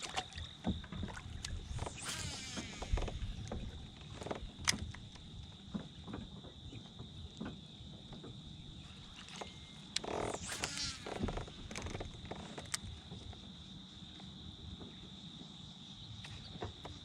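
Steady, high-pitched insect drone, with scattered sharp knocks and a couple of brief rustling, splashy noises about two seconds in and again around ten seconds in.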